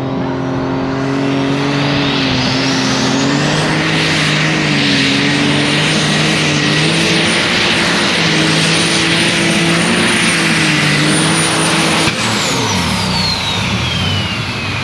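Turbocharged superstock pulling tractor engine running at high, steady revs. Its turbocharger whine climbs over the first few seconds to a high, airplane-like scream and holds. About twelve seconds in, the engine is cut back and the whine winds down in pitch.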